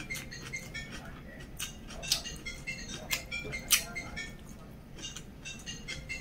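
Close-miked chewing with wet mouth clicks and lip smacks from a person eating rice and side dishes by hand, over music.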